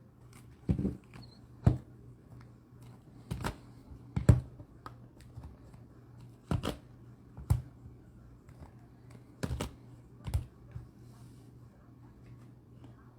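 Trading cards being handled and set down on a table: sharp taps in pairs, about a second apart, every few seconds, over a steady low hum.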